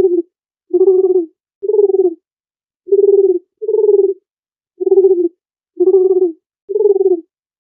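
A bird calling over and over: about nine short, low-pitched calls, each about half a second long, coming roughly one a second.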